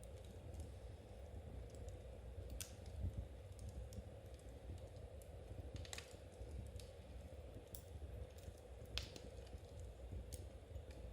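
Knitting needles clicking in a soft, irregular patter, with a few louder clicks, over a low steady rumble.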